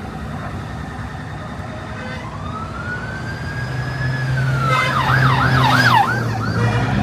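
An emergency vehicle siren passing on the road: a slow rising wail that holds high for a couple of seconds, then switches about five seconds in to a fast yelp warbling up and down about three times a second. A steady low traffic and engine rumble runs underneath.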